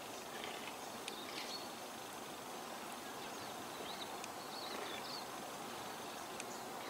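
Faint, short bird chirps over a steady outdoor background hiss, in two small clusters: one early and one in the middle.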